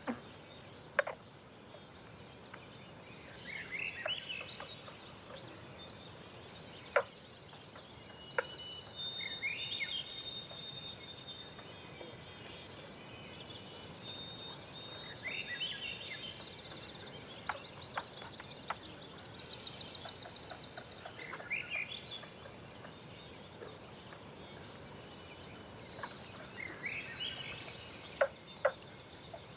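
Several songbirds singing at dawn: repeated high buzzy trills alternate with short falling whistled phrases every few seconds, over a soft steady hiss. Sharp clicks break in now and then, most of them near the end.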